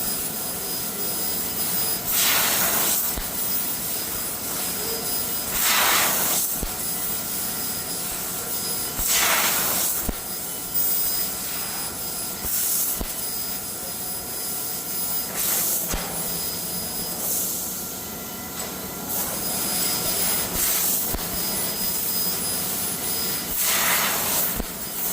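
CNC laser cutter cutting steel sheet: a steady hiss of the cutting head and its assist gas, with louder hissing surges every three to four seconds and a faint steady machine hum underneath.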